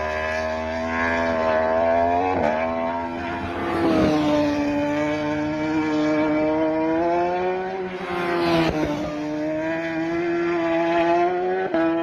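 Racing motorcycle engine at high revs, its pitch briefly dropping and climbing again several times.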